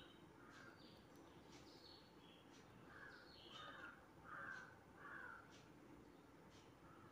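Faint bird calls: a run of about five short calls, most of them between three and five and a half seconds in, with thinner high chirps among them.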